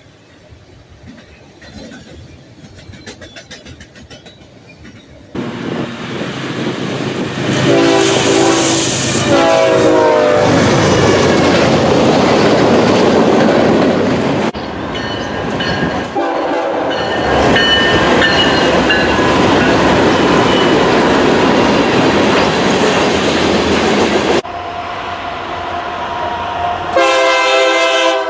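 Trains passing close by, a loud rumble and rail clatter, with a train horn sounding about eight seconds in and again near the end. The sound changes abruptly several times, as one train clip cuts to another.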